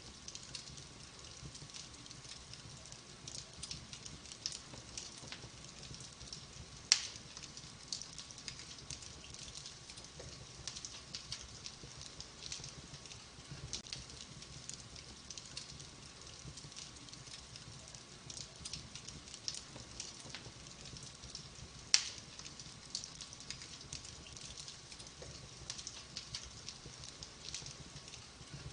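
Wood fire in a fireplace crackling: a steady run of small snaps, with two loud pops about seven seconds in and again near the twenty-two-second mark.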